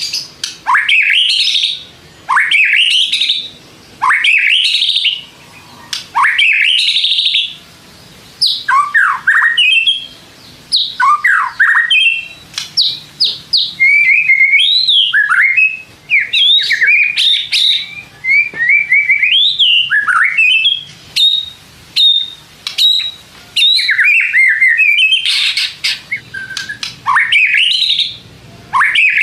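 White-rumped shama (murai batu) singing loudly: a varied string of sweeping whistled phrases, each a second or two long with short pauses between, mixed with sharp clicking notes.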